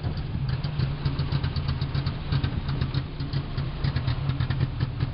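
Land Rover Series III engine idling steadily.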